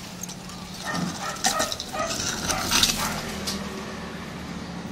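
Steady low machine hum from a large egg incubator's fans, with several sharp knocks and clatters between about one and three seconds in, and a dog barking.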